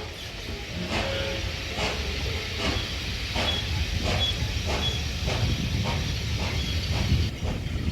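GWR Manor class 4-6-0 steam locomotive 7828 Odney Manor starting away from a station: slow, evenly spaced exhaust chuffs, a little under one a second, over a steady hiss of steam.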